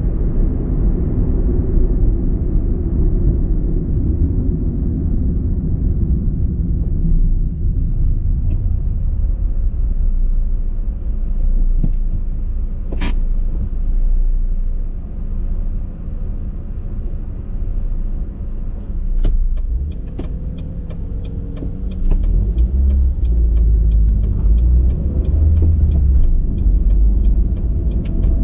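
Car driving, with a steady low rumble of engine and road noise and a single sharp click about halfway through. In the last third a fast, regular ticking starts and the rumble grows louder.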